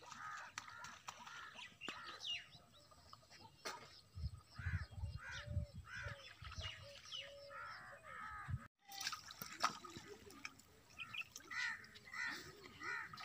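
Many short bird calls repeating again and again, with a low rumble for a couple of seconds in the middle.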